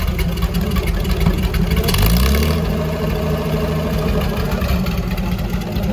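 GAZ-51B inline-six petrol engine running. About two seconds in it revs up, then holds at a steady higher speed.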